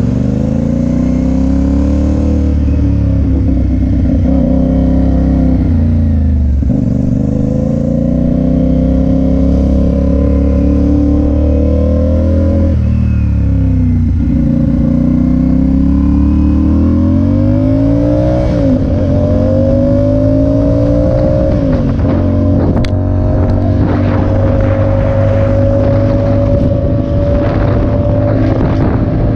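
Motorcycle engine under way, its pitch climbing and then dropping several times as it is ridden through the gears, then holding nearly steady near the end.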